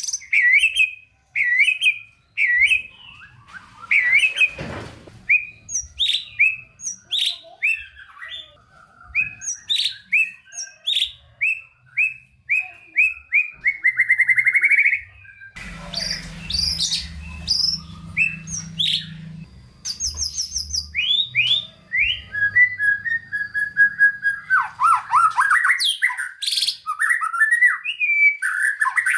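White-rumped shama (murai batu) singing a fast, varied song of quick chirps, rattling trills and whistled notes, packed with mimicked phrases (isian).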